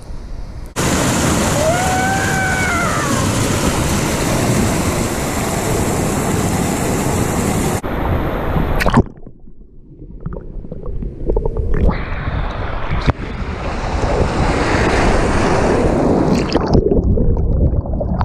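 Rushing whitewater of a river rapid, a loud even rush that starts abruptly about a second in, drops away sharply around nine seconds, then builds back up after twelve seconds. A short pitched call rises and falls over it about two seconds in.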